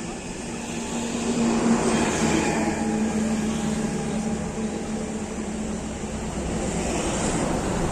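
Powertrac tractor's diesel engine running steadily, a constant low rumble with a hum.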